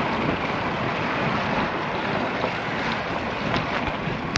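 Steady rush of wind on the action camera's microphone, mixed with road noise, while riding a road bike.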